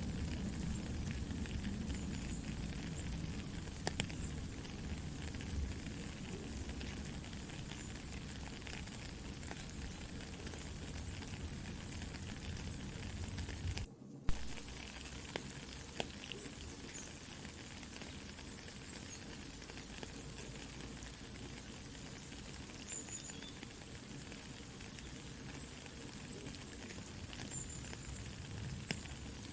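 Steady rain pattering together with a crackling campfire, with sharp pops now and then. About halfway through, the sound cuts out for an instant and comes back with less low rumble.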